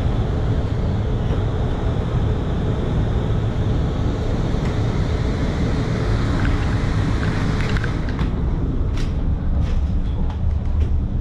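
PKP InterCity passenger train arriving at a station platform: a steady low rumble, with a run of short sharp clicks in the last three seconds.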